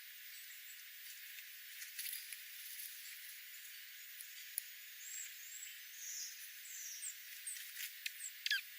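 Small birds giving soft, high chirps over a steady hiss, with a few clicks and a quick falling call near the end.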